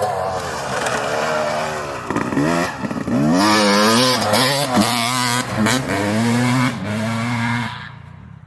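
Motocross dirt bike engine revving hard on the throttle, its pitch rising and falling again and again, then falling away sharply near the end.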